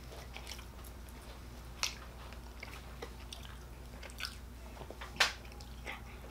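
Faint chewing of Skittles candy: scattered soft mouth clicks, two of them a little louder about two seconds and five seconds in.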